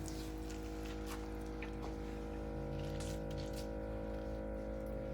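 Faint wet squishing and light clicks of hands mixing grated potato latke batter in a bowl, over a steady background hum.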